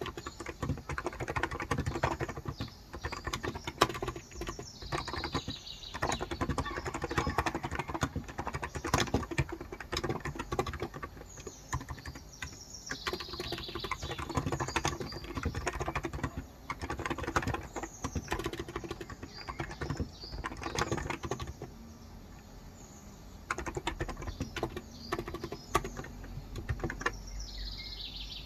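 Steady typing on a Cox Endeavor electro-capacitive (Topre-style) 35g tenkeyless keyboard: a dense run of soft keystrokes that pauses briefly about two-thirds of the way through. Birds chirp in the background.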